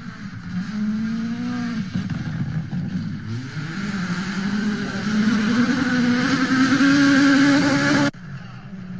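Rally car engine accelerating hard, its pitch climbing, dropping once at a gear change, then rising again and growing louder before cutting off suddenly near the end, where a quieter engine sound takes over.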